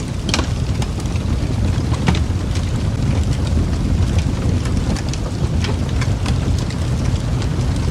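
Wood fire crackling in a fireplace: a steady low roar of flames with frequent short sharp pops and snaps from the burning logs.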